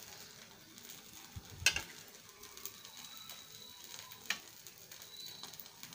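Faint sizzling of a bread sandwich toasting in a frying pan, its second side browning, with two sharp clicks, one about a second and a half in and one past four seconds.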